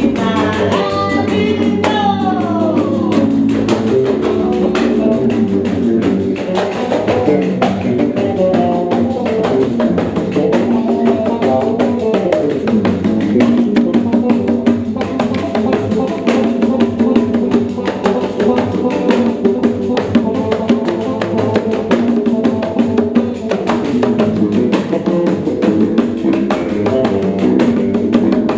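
Live music from a pandeiro ensemble with plucked strings, playing a steady, dense instrumental passage full of frame-drum strokes. A voice sings a falling phrase in the first few seconds.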